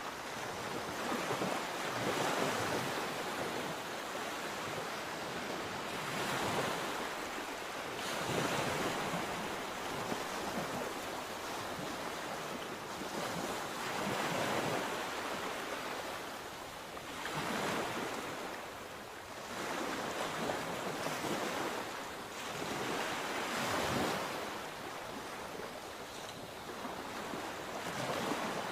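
Sea waves breaking and washing in, swelling and fading every few seconds.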